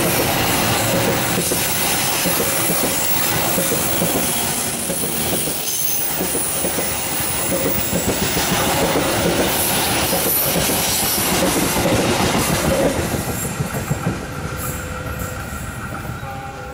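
Passenger train coaches rolling past close by, the wheels clattering rhythmically over the rail joints with a thin, high wheel squeal over the rumble. The sound falls away near the end as the last coach passes.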